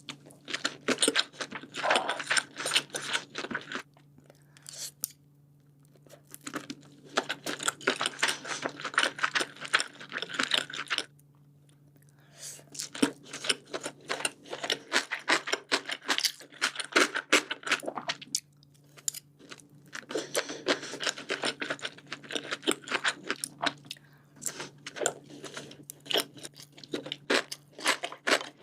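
Close-miked chewing of sushi: wet, clicky mouth sounds in bouts of several seconds, with short pauses between bouts.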